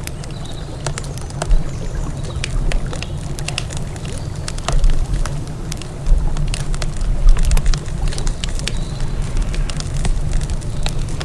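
Campfire crackling, with frequent sharp irregular pops over a steady low rumble that swells a few times.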